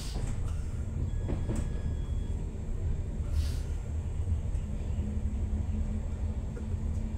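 Stadler FLIRT electric multiple unit (ER160) running on the rails: a steady low rumble with a few short clicks, some about a second and a half in and another near three and a half seconds.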